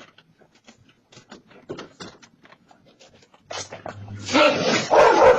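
Scattered light clicks and rustles, then loud animal calls that bend up and down in pitch, starting about four seconds in.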